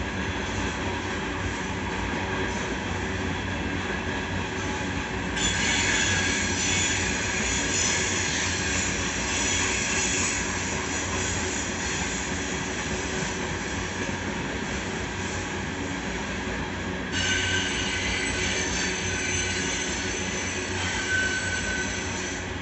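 Coal train hopper cars rolling steadily past with a continuous rumble. A high-pitched wheel squeal sets in suddenly about five seconds in, dies back, and returns sharply near the seventeen-second mark.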